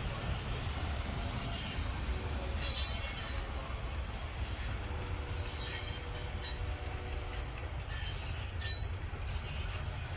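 Freight train rolling past: a steady low rumble of the cars, with repeated short high-pitched squeals of steel wheels on the rail. The loudest squeals come about three seconds in and again near the end.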